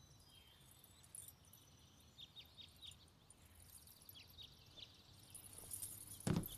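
Faint background ambience with a few faint, short high bird chirps in the middle. A single thump near the end.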